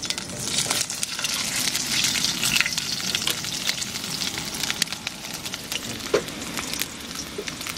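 Carrot sticks frying in plenty of oil in a frying pan over a wood fire: a steady sizzle with many small crackles.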